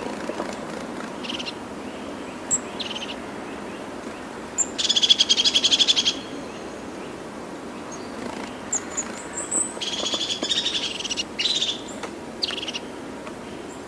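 Birds calling: short high chirps and two loud, fast rattling trills, one about five seconds in and one about ten seconds in, over a steady background hiss.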